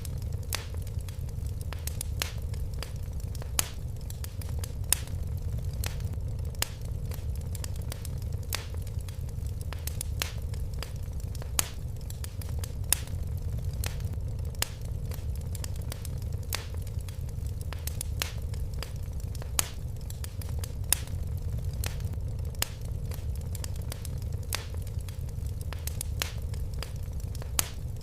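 Fire crackling in a fireplace: frequent, irregular sharp pops over a steady low rumble of the flames.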